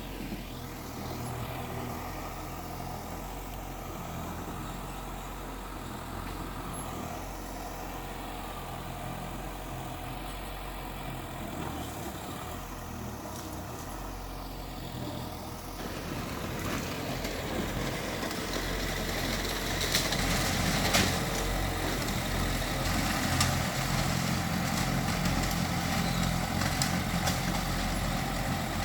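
Diesel engine of heavy earthmoving machinery running steadily. It grows louder about halfway through, with scattered metallic clanks and knocks in the second half.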